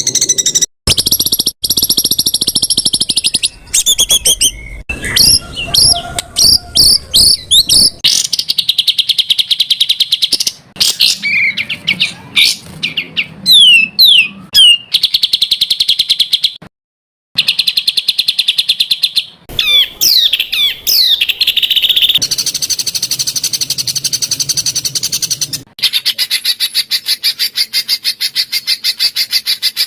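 Songbird calls spliced into a masteran training track: dense rapid-fire repeated notes ('tembakan rapat'), trills and quick rising and falling whistles, the material changing abruptly every few seconds with brief silent gaps.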